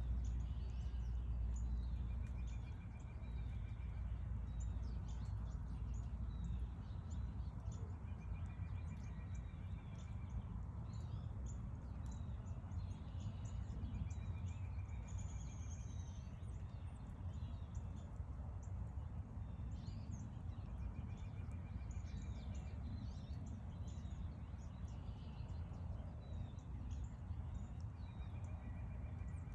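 Woodland birdsong: one bird repeats a short, even trill about every six seconds while other birds chip and call around it, over a steady low rumble.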